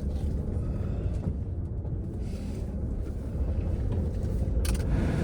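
2005 Land Rover Freelander driving off, a steady low rumble of engine and road heard from inside the cabin, slowly growing louder. A single sharp click comes near the end.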